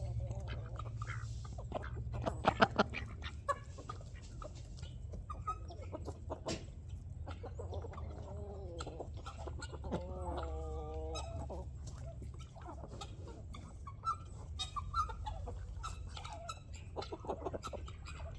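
A flock of chickens clucking and calling, with a longer drawn-out call from one bird about ten seconds in. A few sharp taps stand out about two and a half seconds in.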